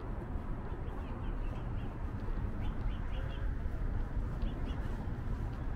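Small birds chirping in quick clusters of a few short high notes, three times, over a steady low rumble of city traffic.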